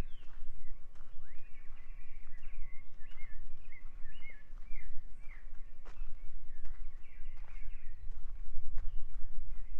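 Forest birds chirping, with a quick run of short repeated notes in the middle, over a steady low rumble and scattered soft ticks from footsteps on the trail.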